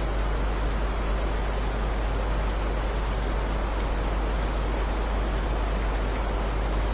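Steady rain: an even, unbroken hiss with a strong deep rumble underneath.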